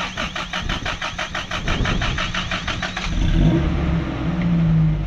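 1986 Toyota pickup's engine being cranked by the starter, an even churning for about three seconds, then catching and running with a brief rev.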